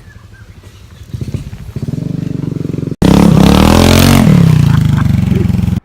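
Motorcycle engine running, its revs picking up about a second in. After an abrupt cut about three seconds in, a much louder motorcycle engine rises and then falls in pitch.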